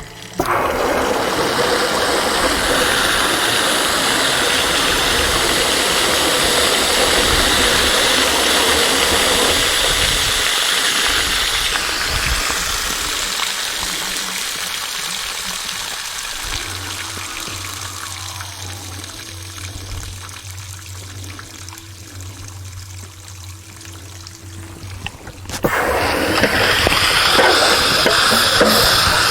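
Water and loosened scale draining out of a water heater tank after a vinegar descaling soak: a loud rushing flow that starts suddenly and gradually dies down, a steady low hum in the quieter middle stretch, then loud flow again that starts suddenly near the end.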